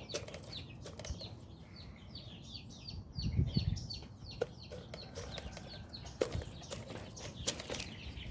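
Chickens in a poultry yard: a quick run of short, high chirps, several a second, with scattered clucks and taps. A brief low rumble comes about three seconds in.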